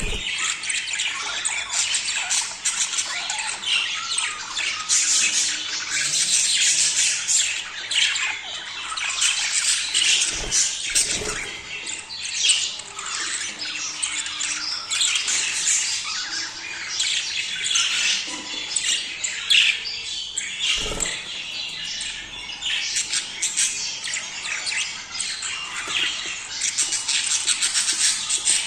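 A flock of budgerigars chattering and squawking without pause, many calls overlapping into a dense warble, the breeding-season chatter of a budgie aviary. A few soft knocks break in about a third of the way through and again past the middle.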